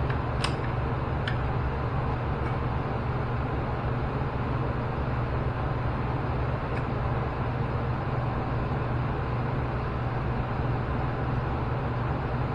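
Steady low mechanical hum with an even hiss over it, unchanging throughout, with two light clicks about half a second and just over a second in.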